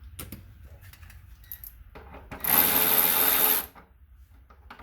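An electric ratchet's motor runs in one steady burst of just over a second, about two and a half seconds in, spinning out a 5mm bolt on a motorcycle's front fender, after a few light clicks of the socket being fitted.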